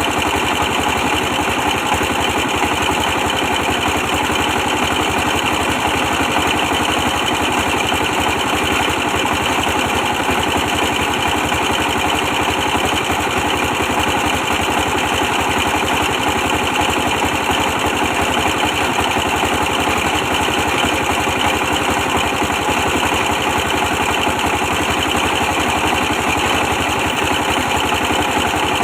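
A 24 hp stationary diesel engine running steadily with an even, unbroken beat.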